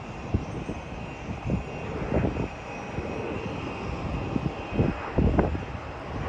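Airliner engine noise, a steady hiss with a faint high whine, broken by irregular gusts of wind buffeting the microphone.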